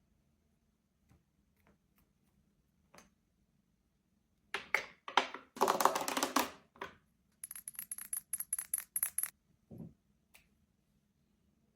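Glass perfume bottles and their caps being handled: scattered sharp clinks, a denser cluster of clinking and clatter midway, then a quick rattle of small ticks with a thin high ring, and one dull knock near the end.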